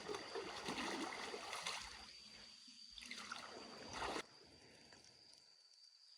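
Water sloshing and trickling in uneven bursts, cutting off abruptly about four seconds in, over a thin steady high tone.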